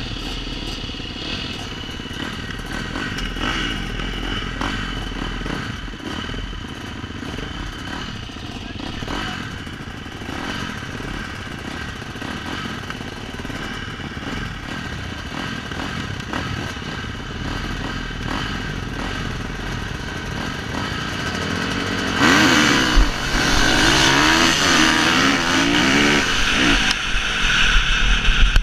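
Motocross bike engines running at a distance, then, about three-quarters of the way through, a bike comes close and louder, its engine revving up and down.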